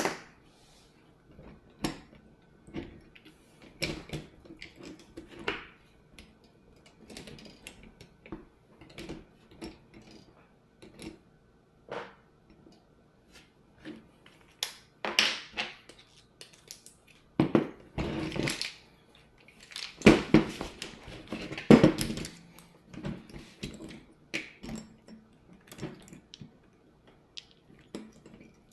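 Small tools and metal parts being handled on a workbench: scattered clicks, taps and clatters, with a few louder rustling, clattering spells in the second half.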